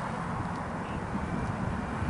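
Steady rumbling outdoor noise with no clear motor or engine tone.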